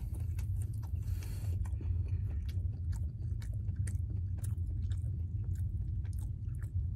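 Chewing and biting into a French toast stick close to the microphone, with many small mouth clicks, over a steady low hum.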